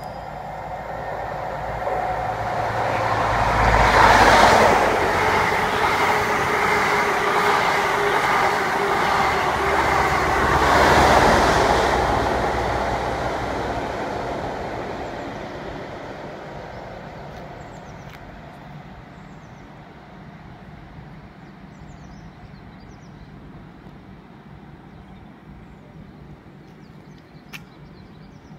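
Passenger train passing through a station. Its running noise builds over a few seconds, stays loud for about eight seconds, then fades away.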